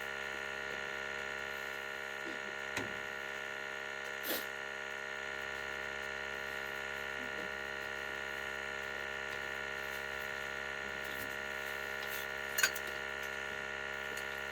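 A steady hum in the boiler room, with a few light clicks and knocks of a connection being unhooked on an oil burner.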